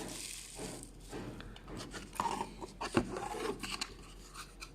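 Light rubbing and scraping with a few small clicks and taps as a phone and its parts are handled on a work surface.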